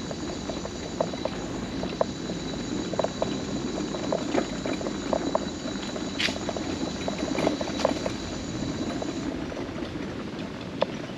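Mobility scooter rolling along a wooden boardwalk, its wheels clacking irregularly over the gaps between the planks under a steady rumble. A high steady whine runs beneath it and stops about nine seconds in.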